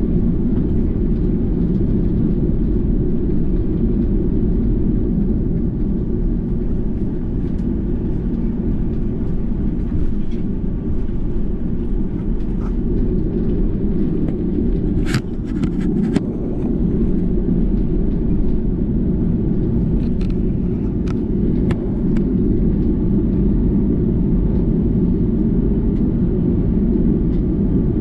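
Steady low rumble of the Airbus A330-343 cabin, with a few brief rattles or clicks near the middle.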